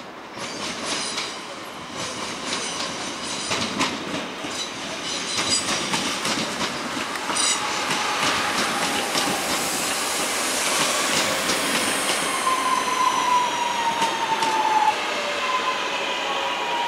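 Northern electric multiple unit running past on curved track. Its wheels click and clack over rail joints and pointwork, and a squeal of wheels on the curve comes in during the second half.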